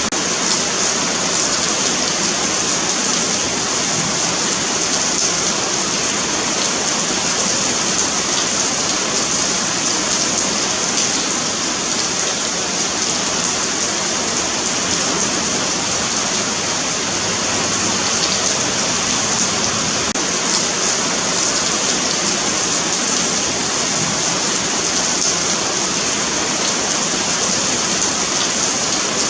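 Steady rain falling on a pavement, a dense, even hiss with faint scattered drop ticks that does not change throughout.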